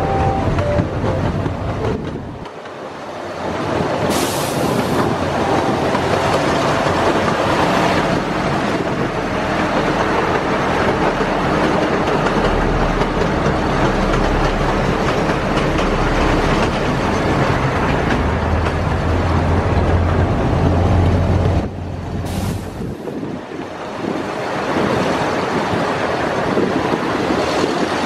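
Miniature park train running along its narrow-gauge track, heard from an open car: a steady running noise of wheels and cars on the rails, easing briefly about two seconds in and again near the end.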